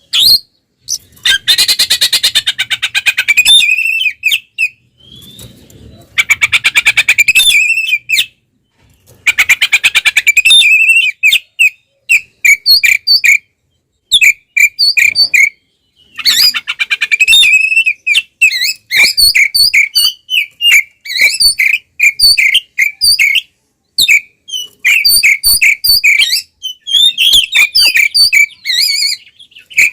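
Oriental magpie-robin singing loudly and continuously: harsh rattling phrases of a second or two alternate with rapid runs of short, sharp whistled notes, the aggressive full-song style used to provoke rival birds.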